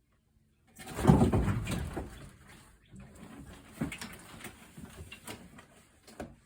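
Scuffling and rustling as a dove is grabbed and caught by hand, loudest and densest from about a second in, then softer rustles and clicks as it is held.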